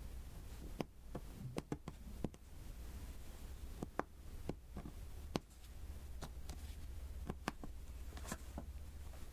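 Small sharp taps and clicks at an irregular pace, about a dozen in all, as resin diamond-painting beads are pressed one by one onto the sticky canvas.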